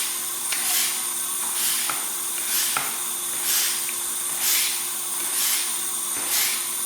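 Vevor hand-pump fluid extractor being pumped steadily, a short rush of air with each stroke, about one stroke a second, as it draws engine oil out of a lawnmower's crankcase through the dipstick tube.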